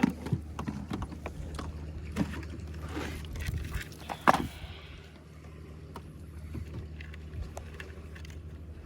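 A boat engine runs steadily at a low hum, with scattered knocks and clatter on the boat. The sharpest knocks come right at the start and about four seconds in.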